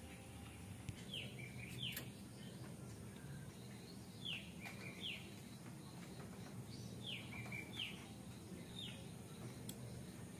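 Faint bird calls: about seven short chirps, each dropping in pitch and then levelling off, mostly in pairs a little under a second apart, over a low steady background hum.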